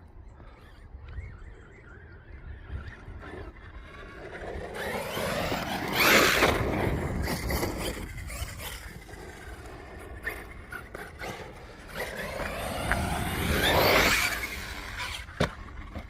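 Team Corally Kagama brushless electric RC stunt truck driving past twice, its motor whine rising and falling in pitch as it approaches and moves away, loudest about six seconds in and again near fourteen seconds.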